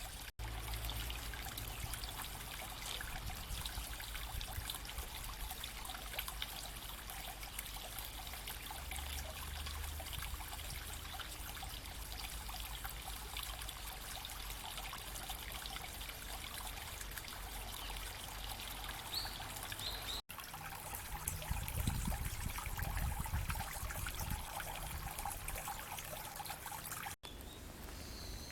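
A small stream trickling and babbling steadily. The sound drops out for an instant twice, and a low rumble rises briefly about two-thirds of the way through.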